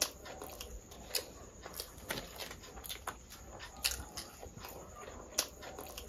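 Chewing and wet mouth smacks of someone eating by hand, with irregular sharp clicks; fingers squish rice and curry on the plate.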